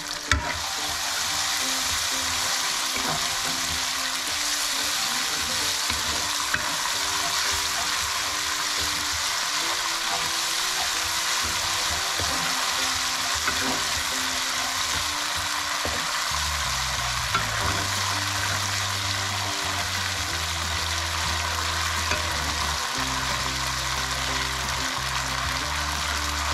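Sambal of ground chili paste with chili, tomato and oyster sauces sizzling steadily as it fries in a pan, stirred now and then, with a few light clicks.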